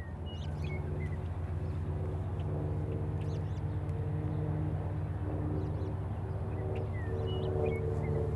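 Diesel freight locomotive engine running and growing louder as the train approaches, with a steady low drone. Small birds chirp briefly several times over it.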